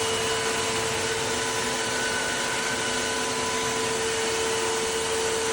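Tineco cordless wet-dry vacuum mop running steadily: the rush of its suction with a constant motor whine, unchanged throughout.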